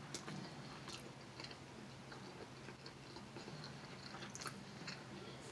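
Faint close-up chewing of a mouthful of lo mein noodles, with a few soft clicks of mouth noise, over a low steady hum.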